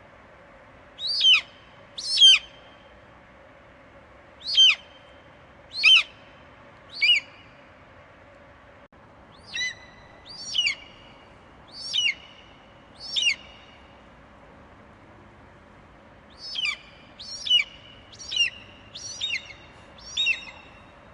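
Eagle calling: short, sharp screeches that drop steeply in pitch, given in three runs of four to six calls about a second apart, over a faint steady hum.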